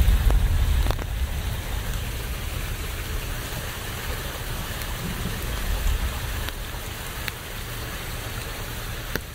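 Steady rain falling, with a few sharp drips standing out and a low rumble that swells in the first second and again about five to six seconds in.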